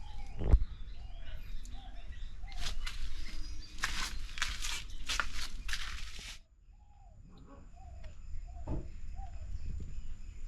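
Small birds chirping over and over, short falling calls, against crackling rustle and handling noise, with a sharp thump about half a second in. The rustling stops suddenly after about six seconds and the birds carry on more quietly.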